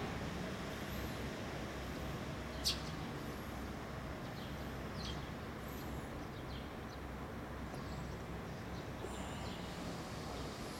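Small birds chirping now and then, with a sharp chirp about two and a half seconds in, over a steady low background hum.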